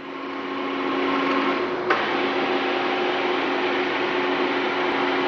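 TOS Kurim FA5B universal milling machine running: a steady mechanical hum with two held tones, building up over the first second or so, and a single click about two seconds in.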